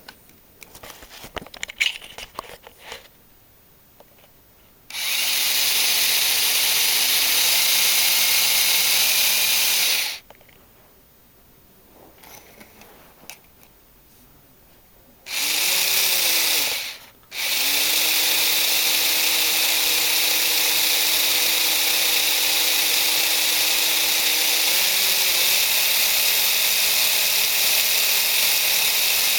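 Two small electric motors from remote-control Lego Racers cars whirring at a steady speed as they spin a Lego model engine. They start about five seconds in, stop about five seconds later, run again briefly, cut out for a moment, then run steadily through the end. Small plastic clicks of handling come in the quiet gaps.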